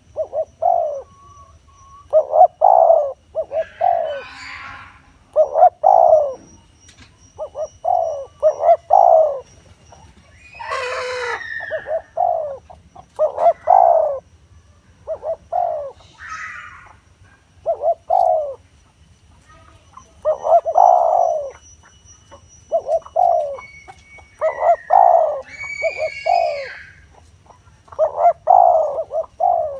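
Spotted dove cooing over and over in short phrases of a few notes, a decoy-style calling song. Other birds' calls come in a few times, one loud and harsh about eleven seconds in.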